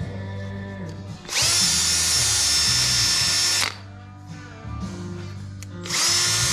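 Drill spinning an 80-grit abrasive disc against the engine block's deck surface to clear rust spots. It runs in a burst of about two and a half seconds, then again near the end, each time with a whine that climbs as it spins up and then holds steady. Background music plays underneath.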